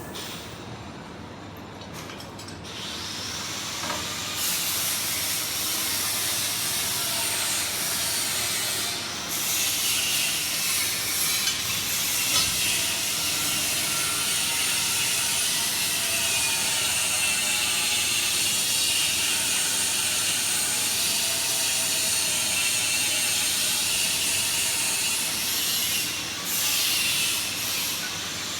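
PVC flexible duct forming machine running: a steady loud hiss with mechanical clatter that builds up over the first few seconds.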